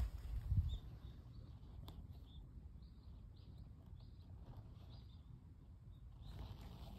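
A small bird chirping, a run of short high notes about two to five seconds in, over a low wind rumble on the microphone, with a couple of louder low bumps in the first second.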